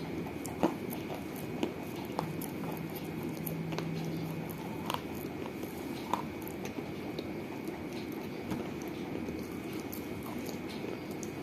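Baked clay from a small clay piggy bank being bitten and chewed, with sharp crunches now and then over a steady low hiss.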